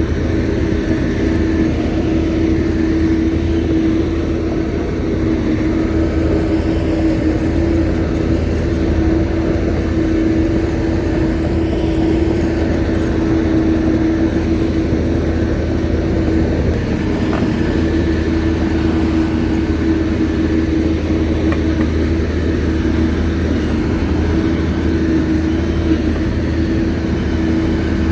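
Shantui bulldozer's diesel engine running steadily under work, a constant deep drone with a strong steady tone over it.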